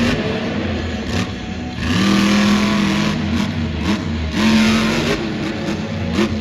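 Monster truck's supercharged, alcohol-burning engine revving hard. It holds high revs about two seconds in, then blips up and down in quick revs near the end.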